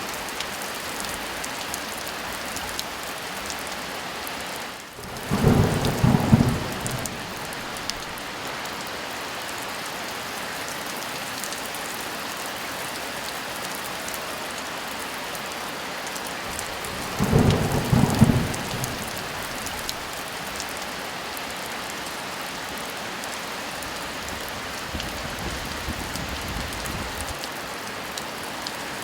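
Heavy rain falling steadily, with two loud claps of thunder, one about five seconds in and one about seventeen seconds in, each rumbling for a second or two.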